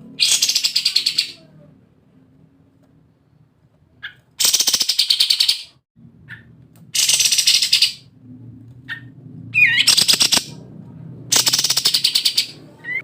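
Kapas tembak bulbul giving its rapid rattling 'ngebren' burst call five times, each burst lasting about a second and a bit, with a few short whistled notes between them.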